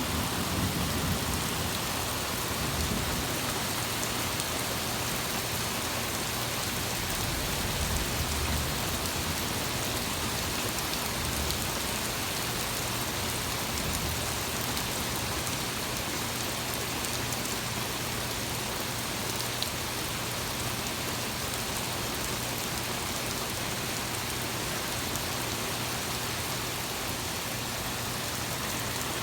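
Torrential rain pouring down in a steady, even hiss, with low thunder rumbling in the first couple of seconds and again briefly around eight seconds in.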